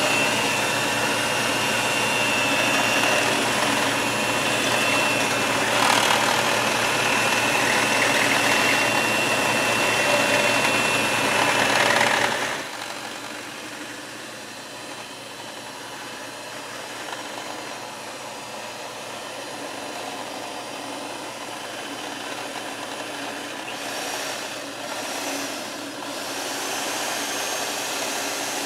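Electric mixer running on low speed, whipping heavy cream in a bowl, a steady motor whir with a thin whine. About halfway through it drops suddenly to a quieter hum that carries on.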